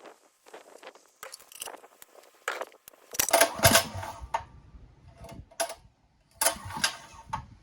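Light metallic clicks and rattles, then two rough pulls on a mini bike's recoil pull-starter, about three seconds apart. The engine doesn't catch and the starter skips.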